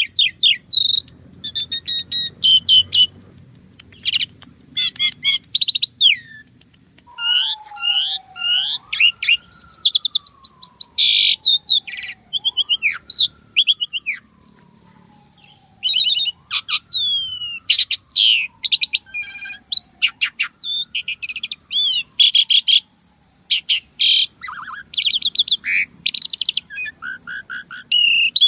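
Asian pied starling singing a lively, varied song of whistles, chatters and harsh notes with little pause. Through the middle, a lower whistle that slowly falls and then sweeps back up repeats four times beneath the song.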